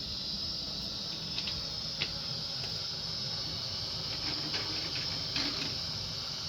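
A steady hiss, with a low rumble underneath and a few light clicks and taps.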